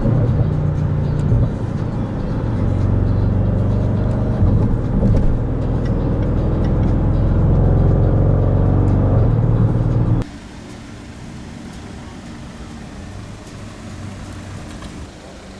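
Range Rover SVR's supercharged 5.0-litre V8 exhaust running hard, rising in pitch as it accelerates, with a few sharp crackles. It cuts off abruptly about ten seconds in, leaving a much quieter steady rumble.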